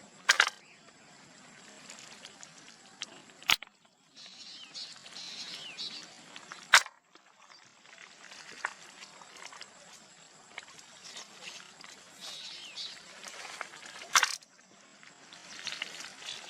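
Faint background hiss with four sharp clicks spread unevenly across the stretch, two of them followed by a moment of dead silence.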